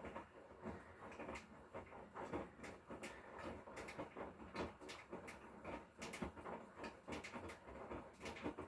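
Hotpoint Core washing machine's drum tumbling a wash load, giving an uneven run of knocks and clicks.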